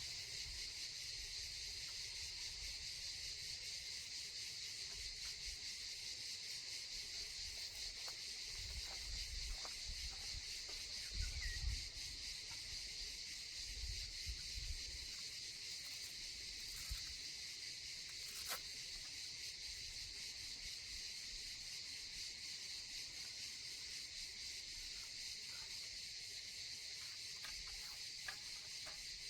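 A steady chorus of insects chirping in a high, fast-pulsing drone. There are a couple of brief low rumbles about eleven and fourteen seconds in, and a single click a few seconds later.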